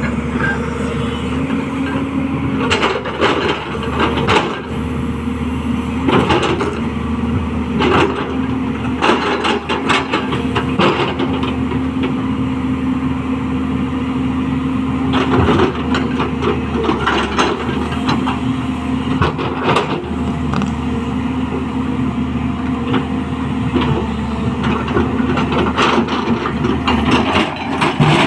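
A 210LC crawler excavator's diesel engine runs steadily, with frequent knocks and clatters from the machine working through the whole stretch.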